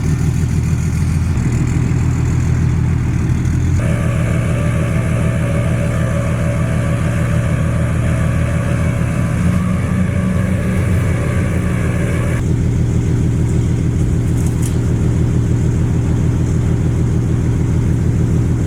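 Dodge Ram 3500's Cummins turbo-diesel engine running steadily at low speed while the truck is manoeuvred into position. A higher steady whine joins the drone from about four seconds in and stops about twelve seconds in.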